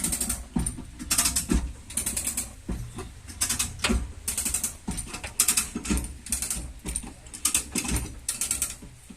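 A hand ratchet clicking in short bursts of rapid clicks, repeating every second or so, as a tool is worked back and forth during body and frame repair.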